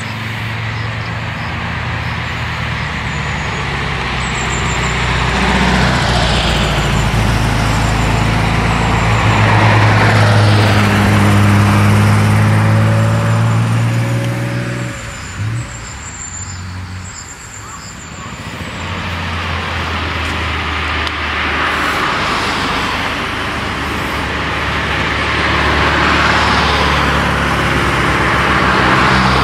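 Classic sports car engines passing one after another as they pull up a climbing corner; the engine sound swells and fades twice, about ten seconds in and again near the end.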